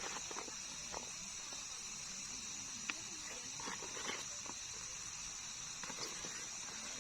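Night insects, crickets, keeping up a steady high-pitched trill, with a few scattered light clicks and knocks over it.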